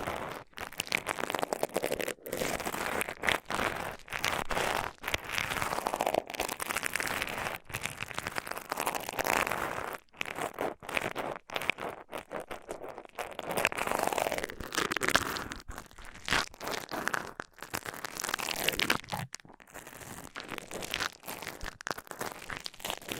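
Close-miked ASMR tapping and crinkling on objects: a dense run of quick taps and crackles, with short, abrupt breaks.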